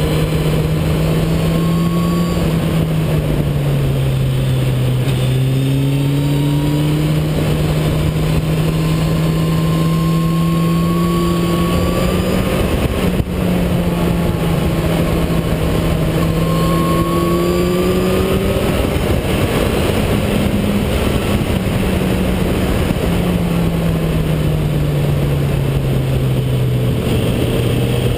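Motorcycle engine heard from a camera mounted on the bike, its note climbing and falling several times as the rider opens and eases the throttle through the bends, under a constant rush of wind noise.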